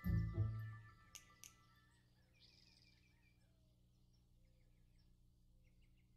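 A music cue dies away in the first second, followed by two short clicks. Faint birds then chirp in short repeated bursts over a quiet background.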